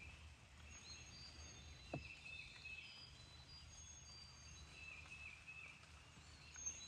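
Faint birdsong outdoors: several birds giving short whistled notes and phrases, with a single soft click about two seconds in.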